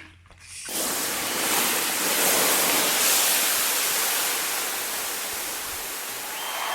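Steady, loud hissing spray of a firefighting discharge, putting out a small fire. It starts abruptly about a second in and keeps going without a break.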